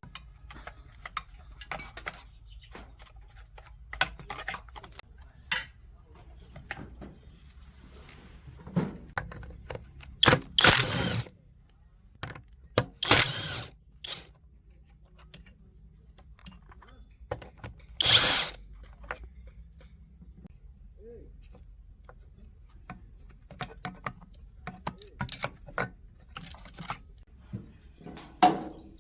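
Hand work on small engine parts: scattered clicks and taps of metal tools and parts, broken by three short, loud, noisy bursts of a power tool, each about a second or less.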